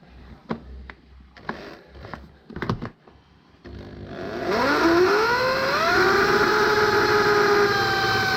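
A few light clicks and knocks, then a handheld electric power tool spinning up with a rising whine and running at a steady speed.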